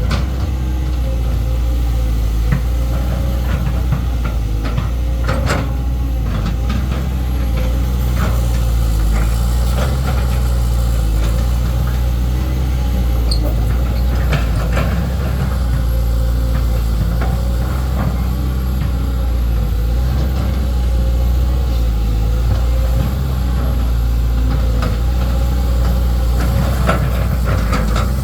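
Four-cylinder Caterpillar ACERT diesel engine of a CAT 320D2 GC excavator running steadily at an even speed, with a few faint clicks over the engine note.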